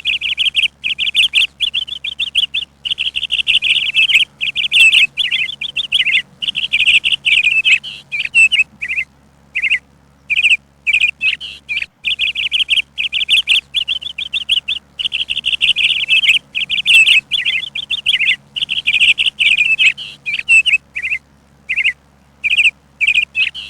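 A bird chirping: runs of quick, high chirps, broken by short pauses of under a second.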